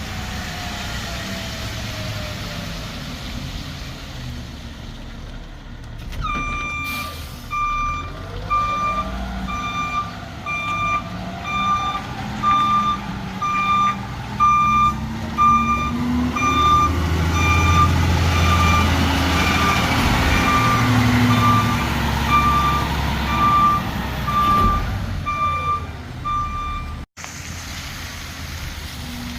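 Garbage truck backing up, its reversing alarm beeping steadily about once a second over the running engine, which rises in the middle. The beeping starts about six seconds in and stops shortly before the end.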